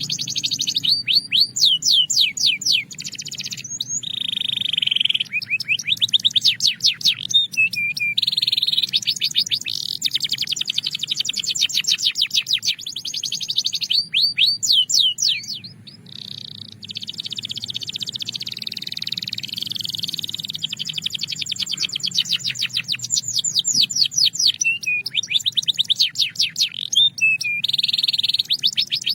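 Belgian canary singing a continuous song of fast, high trills and rolls, each phrase a rapid run of repeated notes, some faster and some slower and more spaced. There is a brief pause about halfway through.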